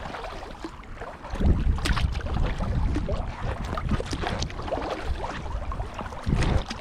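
Kayak paddle strokes dipping and splashing in the water, with wind buffeting the microphone as a low rumble from about a second and a half in.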